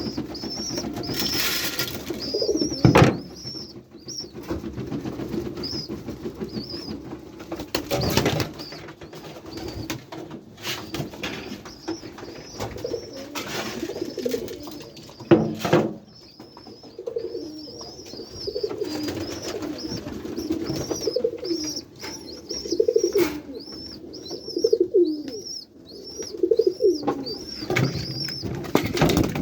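A flock of pigeons cooing in a loft, their low throaty coos overlapping again and again, with frequent short high chirps above them. A few sharp knocks break in, loudest about three, eight and fifteen seconds in.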